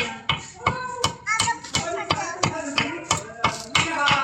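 Rapid sharp knocks, about three a second, with voices behind them.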